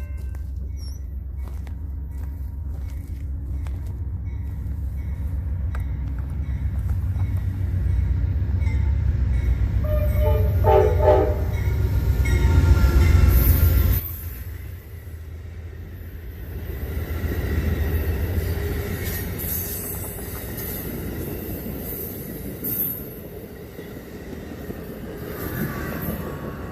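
A train passing close by: a heavy low rumble builds over the first half and drops away suddenly about fourteen seconds in. A lighter rushing noise follows.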